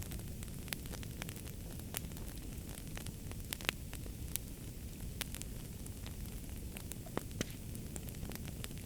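Fireplace fire crackling, with irregular sharp pops over a steady low rumble. The loudest pops come a little past midway and twice close together near the end.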